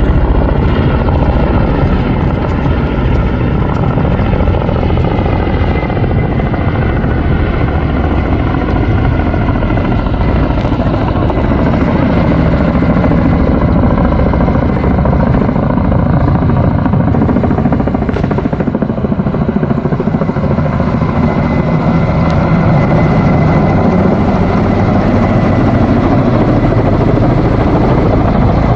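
Helicopter running loud and steady, the rotor noise carrying a faint high whine.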